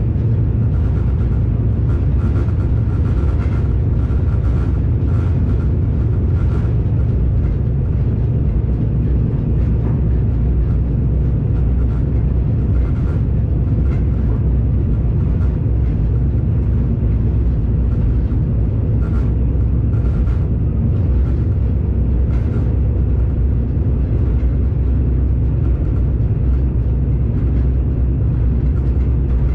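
Steady low rumble of a commuter train carriage in motion, heard from inside, with faint irregular clicks and rattles.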